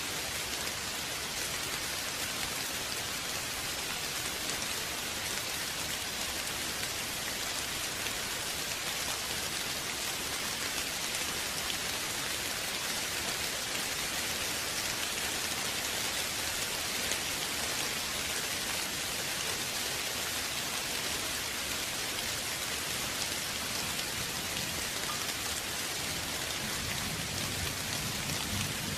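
Steady rain falling, an even hiss of many drops on a surface. Near the end a low rumble of thunder begins to build.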